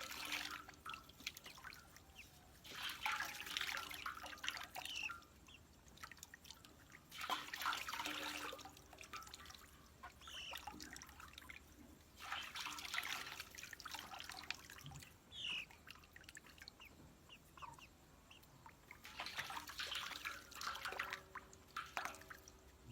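Bursts of splashing, dripping water every few seconds, with a few short rising chirps from poultry in between.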